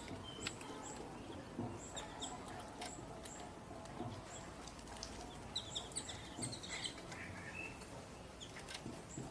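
Wild birds chirping: short, high calls scattered throughout, busiest around the middle, over a low steady background.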